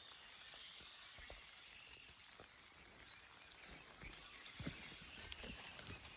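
Faint, high-pitched bird chirps, many short sliding notes in quick succession, over outdoor background hiss. Soft low thumps join from about four seconds in.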